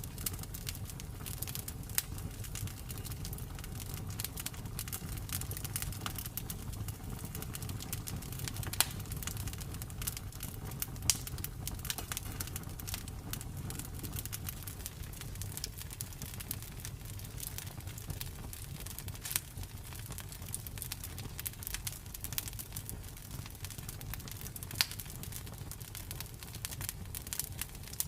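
Campfire burning steadily, wood crackling and popping at irregular moments over a low rumble of the flames.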